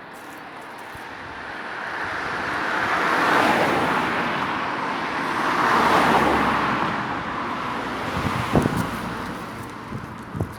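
Two cars passing one after the other on the road, their tyre and engine noise swelling to a peak each time and then fading away. A few light knocks near the end.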